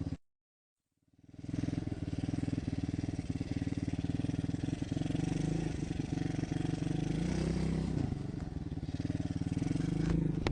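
Motocross bike engine running steadily at low revs, with a slight rise and fall in pitch midway. It comes in after about a second of dead silence. Two sharp clicks near the end.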